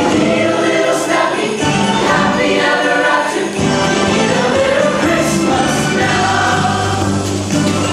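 A choir singing in harmony, several voice parts holding notes and moving together from chord to chord.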